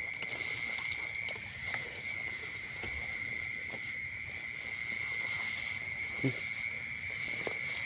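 Steady, high-pitched insect trill held at one pitch, like a cricket's, with scattered light clicks and rustles.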